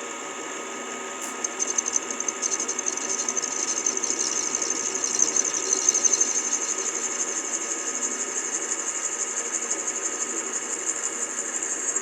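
Milling machine spindle running as a 9/16-inch end mill cuts into 304 stainless steel, fed down for a counterbore. A high-pitched cutting noise starts about a second in, grows louder toward the middle, then holds steady over the motor's hum.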